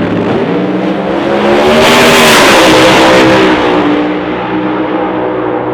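A drag-race car's engine passes by, its pitch rising and then falling. It is loudest about two to three seconds in, then runs on steadily.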